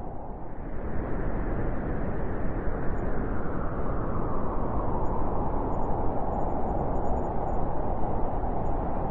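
Wind blowing hard, a steady rushing that swells about a second in and holds, with small gusting surges.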